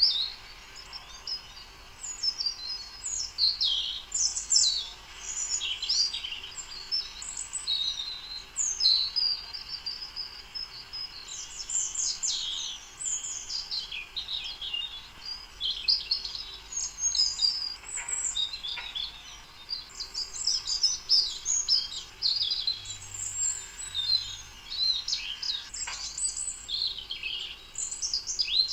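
Many small birds chirping and twittering together in a dense, continuous chorus of short, high-pitched calls.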